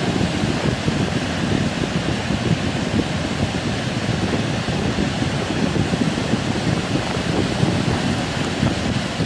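Heavy surf rushing steadily on the shore, with wind buffeting the microphone.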